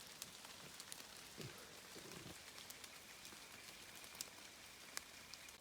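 Faint rainforest ambience: a soft steady hiss with scattered light ticks.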